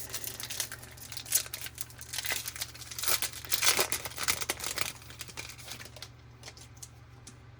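Foil wrapper of a 2020 Topps Series 1 baseball card pack crinkling and tearing as it is pulled open by hand, loudest in the middle and dying down to light rustling near the end.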